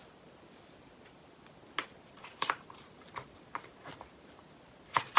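Scattered small plastic clicks and taps of diamond painting drill bags and storage pots being handled as drills are sorted into pots, the loudest near the end.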